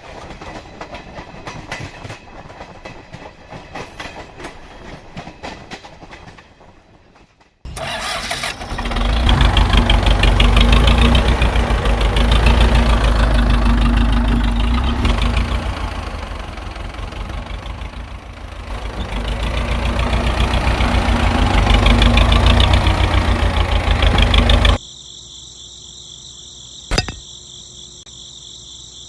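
Rapid clicking for several seconds, then an engine runs loudly for about 17 seconds with its level rising and falling, and cuts off suddenly. A steady high insect chirring follows, with one sharp click.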